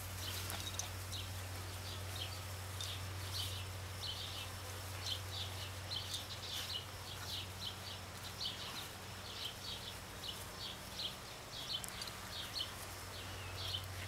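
A small bird chirping faintly and repeatedly, short high chirps about two a second, over a steady low hum.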